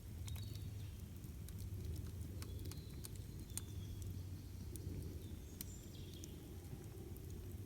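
Campfire crackling with scattered sharp pops over a steady low rumble, with a few short high bird chirps.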